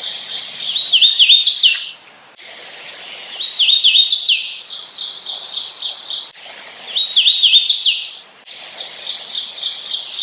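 Hooded warbler singing its song over and over, about four times: a few slurred, whistled two-note phrases, an emphatic rising note, then a run of quicker notes. The background hiss starts and stops abruptly between songs, as in spliced recordings.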